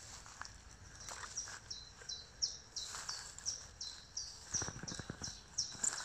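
A songbird singing a fast run of short, high, downward-slurred notes, about three a second, starting about a second in. Brief rustling in the undergrowth comes a little before the five-second mark.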